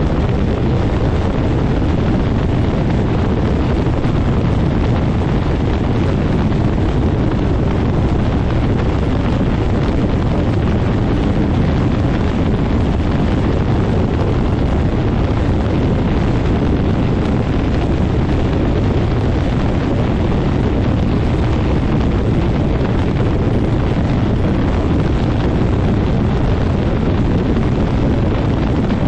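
Quicksilver MX ultralight floatplane running, its prop blast buffeting the microphone as a steady, loud wind rush with the engine underneath.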